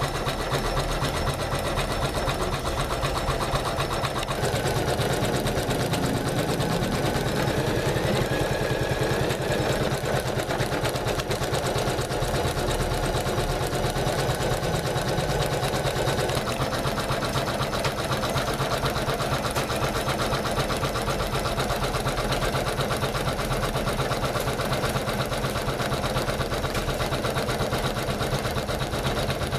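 Janome MC500E computerized embroidery machine stitching, a steady run of rapid needle strokes. Its tone shifts slightly about four seconds in and again midway.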